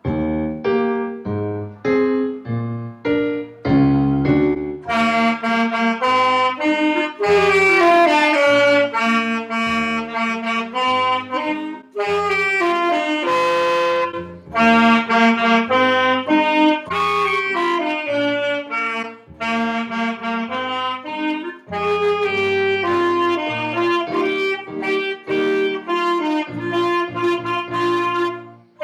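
Clarinet and saxophone playing a beginning-band duet, a brisk tune of quarter and eighth notes with short breaks between phrases.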